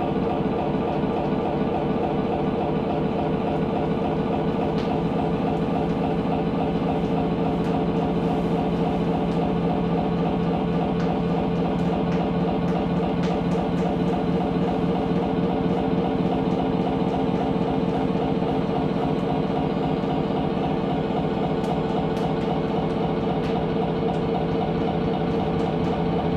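A loud, steady drone like an idling engine, with a fast even pulse and no change throughout.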